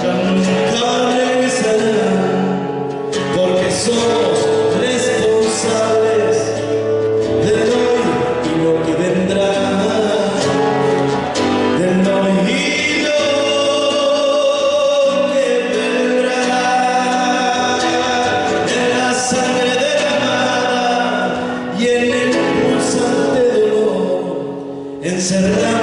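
Argentine folk song: male voices singing a melody over instrumental accompaniment.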